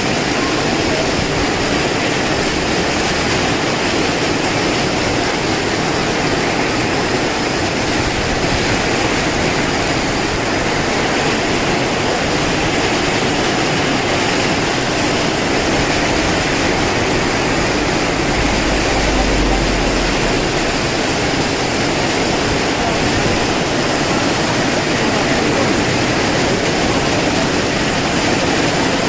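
Heavy rain pouring down in strong wind: a loud, steady rushing noise, with a brief deep rumble of a gust about eighteen seconds in.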